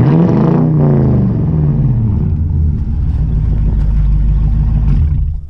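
2018 Toyota Tundra's V8 through a Flowmaster Outlaw dual exhaust: one quick rev that falls back over about two seconds, then a steady deep idle rumble that drops away just before the end.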